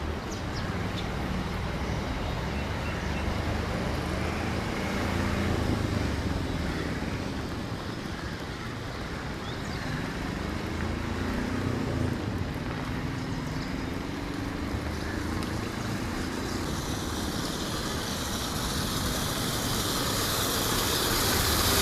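Street traffic: a steady wash of passing vehicles, with one engine's note rising and falling in the middle, and the noise swelling near the end.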